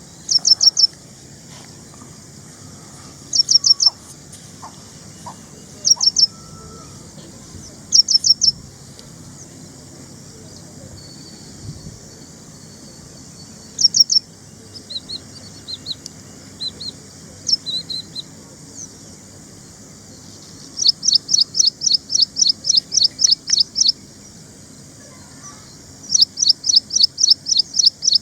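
Ashy prinia singing. It gives short bursts of three or four high, sharp notes every couple of seconds, with a few softer, lower notes around the middle, then two longer rapid runs of about a dozen notes each near the end.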